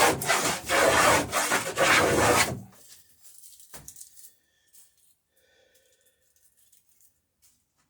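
Hand plane shaving along the edge of a wooden plank in quick repeated strokes, beveling the strake. The planing stops about two and a half seconds in, leaving only faint taps and handling.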